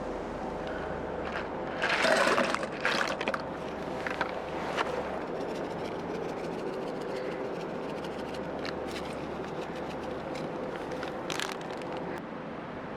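Campfire crackling with a steady hiss and scattered pops under the cooking pan, with a few louder scraping rustles about two seconds in and again near the end.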